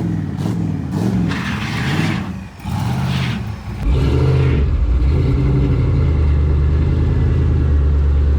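Turbocharged V8 burnout car engine revving up and down. From about four seconds in it is held at a steady high rev, a loud constant drone, with hissing bursts earlier on.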